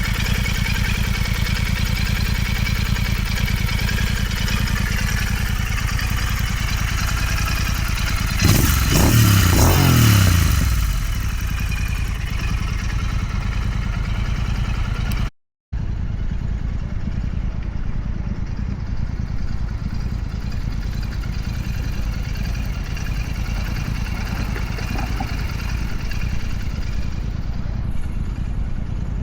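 Royal Enfield Continental GT 650's 648 cc parallel-twin engine running steadily, with a louder surge about eight seconds in that falls away in pitch over a couple of seconds. The sound drops out completely for a moment about halfway through, then the engine carries on, a little duller in the treble.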